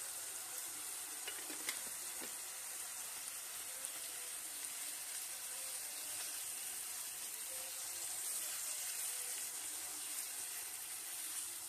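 Diced tomatoes and tomato paste frying with onion and minced meat in oil in a nonstick pan: a steady, even sizzle, stirred with a silicone spatula, with a few faint taps near the start.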